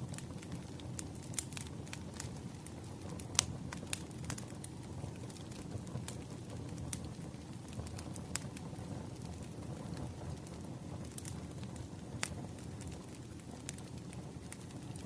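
Wood fire crackling: irregular sharp pops and snaps over a steady low rumble of burning logs, with the loudest pop about three and a half seconds in.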